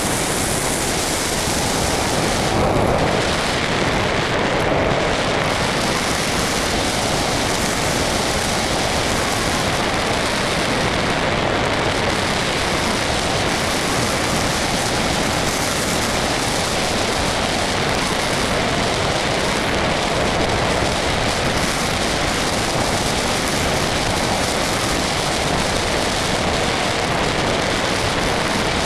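Steady wind rush over the microphone of a camera mounted on a radio-controlled model plane in flight: a loud, even hiss with no distinct motor tone.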